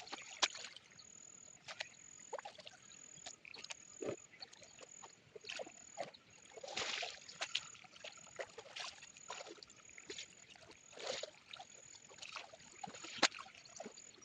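Shallow stream water sloshing and splashing in short irregular bursts, with sharp clicks and knocks of stones, as hands search the stream bed for snails.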